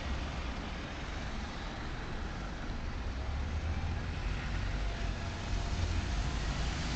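Bus engines running with a low, steady rumble, growing slightly louder about five seconds in.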